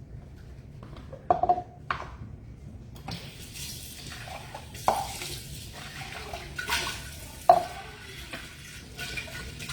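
Kitchen sounds of a drink being made: several sharp clinks of dishware that ring briefly, with water running from about three seconds in.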